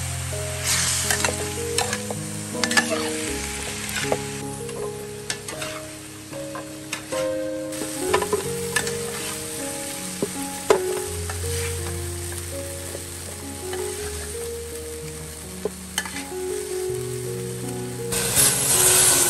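Meat and tomatoes sizzling in a hot pan, stirred and scooped with a metal ladle that scrapes and clinks against the pan now and then, over soft background music with held notes. Near the end a rush of water starts as it is poured into the pot.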